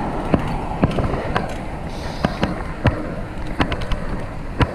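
Movement noise from a fixed-gear bike ride: a steady rush of wind and road noise with irregular sharp clicks and knocks.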